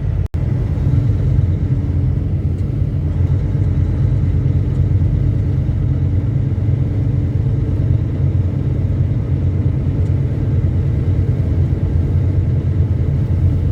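Steady low drone of a semi truck running down the highway, heard from inside the cab: engine and road noise. The sound cuts out for an instant about a third of a second in.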